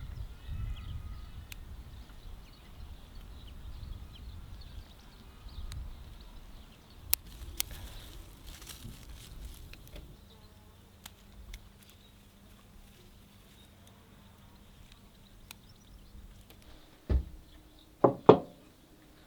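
Outdoor ambience with a low wind-like rumble and faint chirps, two sharp clicks about seven seconds in, then a faint steady hum and three loud knocks near the end.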